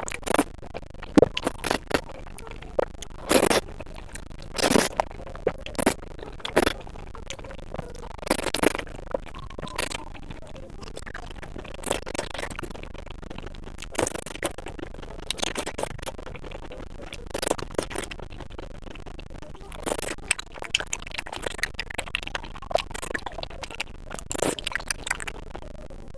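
Close-miked eating of spicy noodle soup: short slurps and chewing sounds coming in irregular bursts every second or few.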